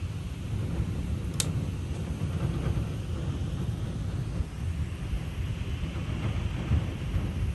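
Storm wind buffeting the microphone in an uneven low rumble, with a single sharp click about a second and a half in.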